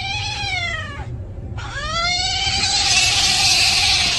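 Domestic cat yowling in two long, drawn-out meows: the first falls in pitch and stops about a second in; the second starts soon after and is held for about three seconds, turning raspy toward the end.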